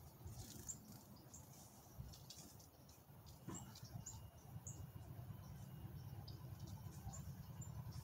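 Faint, scattered high-pitched chirps of small birds, about seven short pips at irregular intervals, over a low rumble.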